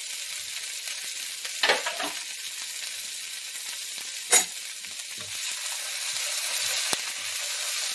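Stir-fry vegetables (broccoli, onion, bell pepper and carrot) sizzling steadily in a hot wok, with a couple of sharp knocks about two and four seconds in. Near the end a spatula stirs the vegetables.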